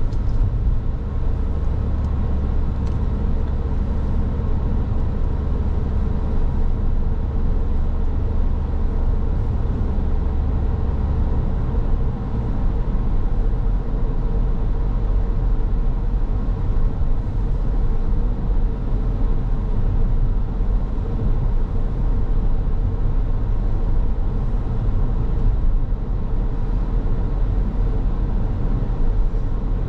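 A car driving: a steady rumble of engine and tyre road noise. About twelve seconds in, the low hum drops to a lower pitch.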